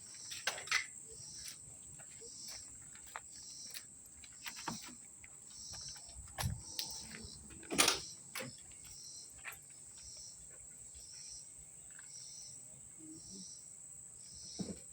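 Insects chirping: a constant high buzz with pulsed chirps repeating about one and a half times a second. Scattered light clicks and knocks of handling sound over it, the loudest a sharp click about 8 seconds in.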